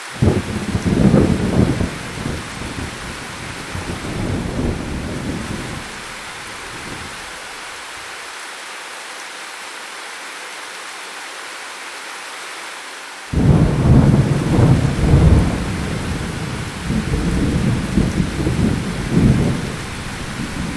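Steady heavy rain with two rolls of thunder: a deep rumble breaks in at the start and dies away over about six seconds, and a second, louder rumble breaks in suddenly about two-thirds of the way through and keeps rolling.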